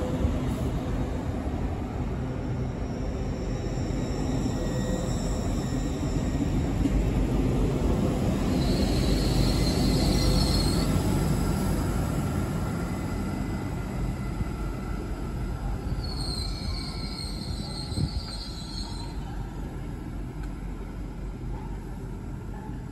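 LNER Azuma high-speed train running along the platform: a steady rumble of wheels on rails that swells and then fades. A high squeal sounds twice, about nine and sixteen seconds in, and a single knock comes near the end.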